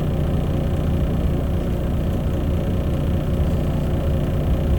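Truck engine idling: a steady low rumble heard from inside the cab.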